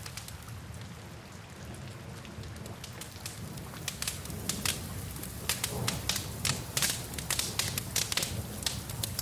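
A wood fire crackling and popping in a fireplace, with steady rain. The pops are sparse at first and come thick and fast from about four seconds in.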